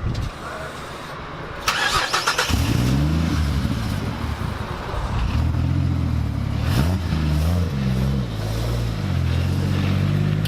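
A car engine is cranked by its starter for under a second, catches about two and a half seconds in, then settles to idle, with its pitch rising and falling a few times.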